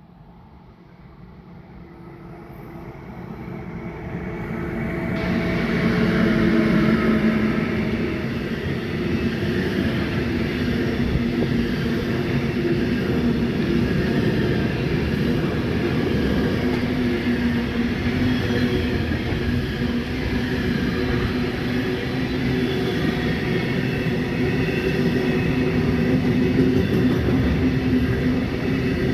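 Electric freight train, a Siemens Vectron class 193 locomotive hauling intermodal wagons, approaching and passing. The sound grows louder over the first six seconds, then the wagons keep rolling past on the rails with a steady rumble.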